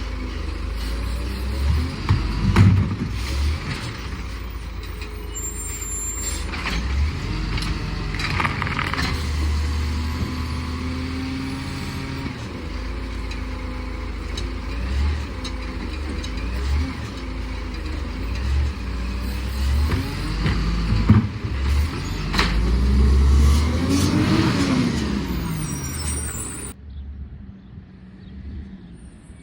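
Garbage truck's engine running and revving up and down, with a few sharp clunks; the sound drops away and becomes muffled near the end.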